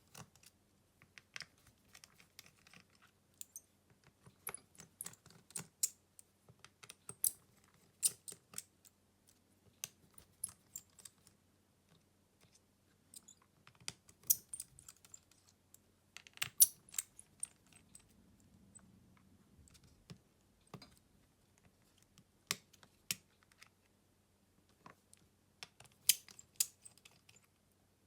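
Irregular sharp clicks and taps of small hand tools against a smartphone's plastic and metal parts during disassembly, some in quick clusters and some seconds apart, over a faint steady low hum.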